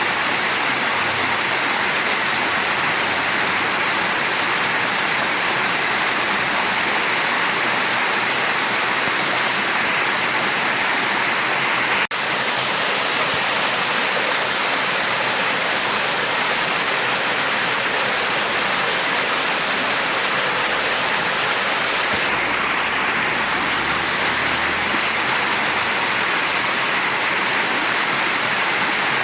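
Mountain stream rushing steadily, an even hiss of fast-flowing water, with a momentary break about twelve seconds in.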